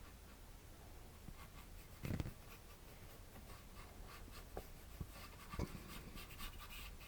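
Paintbrush scrubbing and dabbing on canvas in quick short strokes, with a soft thump about two seconds in and two more later.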